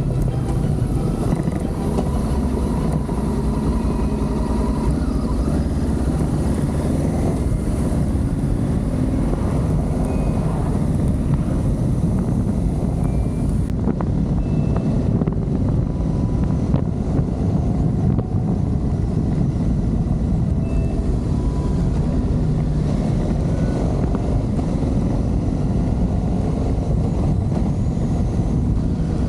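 Adventure motorcycle running steadily under way, its engine drone mixed with wind and road rush.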